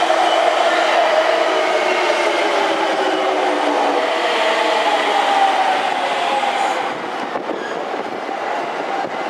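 Electric trains on the tracks beside a station platform. A 185-series train runs past, its running sound falling in pitch as it moves off. Then a Yamanote Line commuter train pulls in close alongside.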